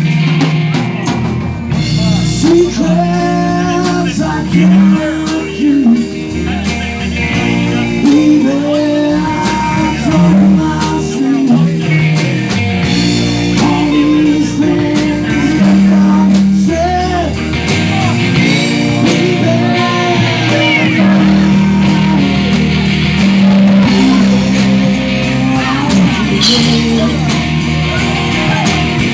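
Live rock-blues band playing: drum kit, bass and electric guitar, with a lead line bending up and down in pitch over the rhythm.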